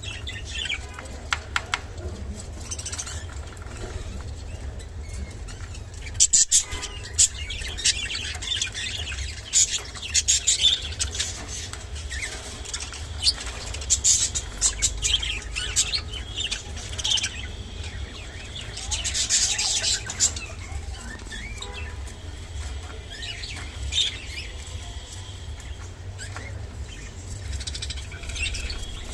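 Budgerigars chirping and chattering in short, scattered calls, with sharp clicks and taps in small clusters, over a steady low hum.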